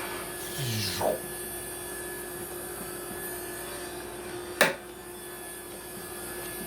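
Steady hum of a running shop machine. A brief scraping sound comes about a second in, and a single sharp knock about two-thirds of the way through.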